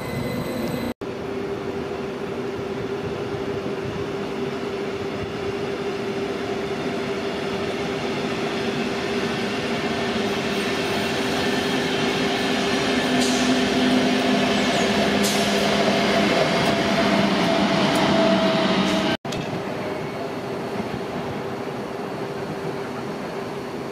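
Intercity train of coaches hauled by a DB class 101 electric locomotive running past on a nearby track: steady rolling wheel noise that swells louder, with brief high wheel squeals about halfway through. The sound cuts abruptly about a second in and again near the end, leaving a quieter steady rail background.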